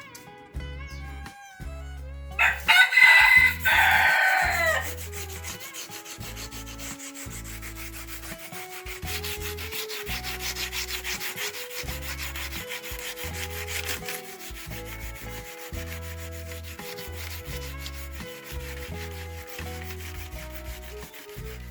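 A rooster crows once, loudly, about two seconds in. Then comes a long run of quick rubbing strokes of wood being sanded by hand.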